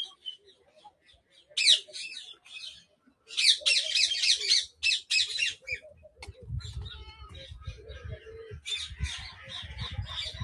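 Birds calling in an aviary: several bursts of high, chattering squawks and chirps. In the second half, low thuds and rumbling sit under fainter calls.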